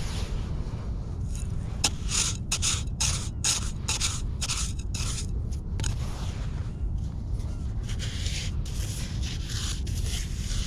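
Repeated gritty scraping in beach sand, a quick run of short strokes in the middle of the stretch and a few more near the end, over a steady low rumble.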